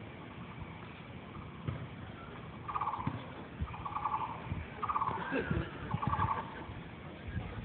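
A bird giving four short rattling calls, roughly one a second, each lasting about half a second.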